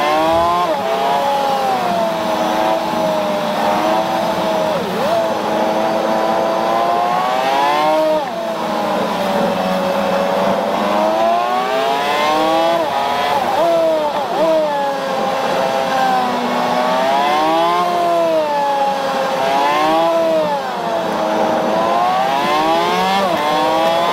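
BMW Z4's engine heard from inside the cabin on track, its note repeatedly climbing under hard acceleration and dropping away as the driver lifts and brakes for corners.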